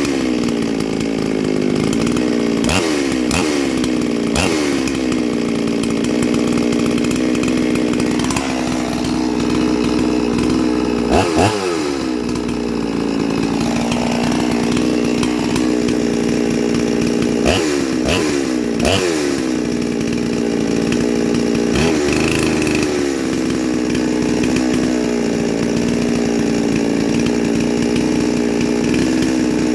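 Neo-tec NS872 clone chainsaw's two-stroke engine idling steadily, blipped to a brief rev several times, each rev falling back to idle. It is the rebuilt engine, with its clone cylinder and new two-ring piston, being run through a break-in heat cycle.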